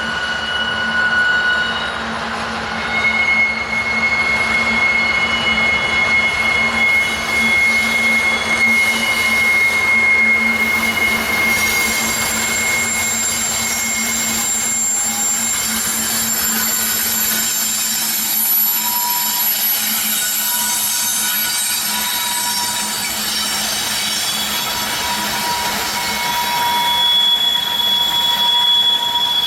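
Empty coal train rolling past, its wheels squealing in several long, steady high-pitched tones that come and go and overlap, over a continuous rolling rumble. A low steady hum runs under the first half and fades out about halfway through.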